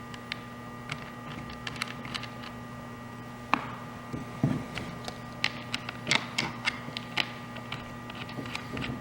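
Light clicks and taps of hard plastic parts being handled as the pole chainsaw's housing cover is fitted back on over the chain and bar, the busiest stretch a little before the middle and after it, over a steady low hum.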